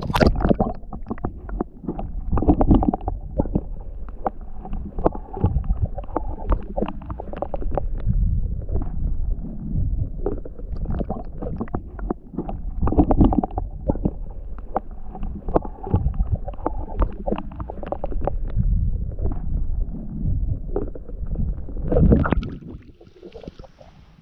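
Kayak paddling on a river: paddle splashes and water gurgling around the boat, over a low rumble of wind and handling noise on the microphone. The sound drops away sharply near the end.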